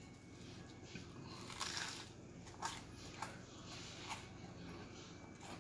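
A person chewing and biting into a fried egg and croquette sandwich: soft, wet mouth smacks and crunches coming irregularly, every half second to a second.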